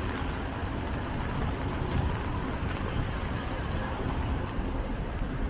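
Steady hiss of road traffic on rain-wet streets.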